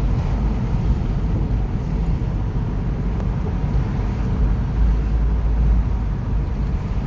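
Car driving along a road: a steady rumble of road and wind noise.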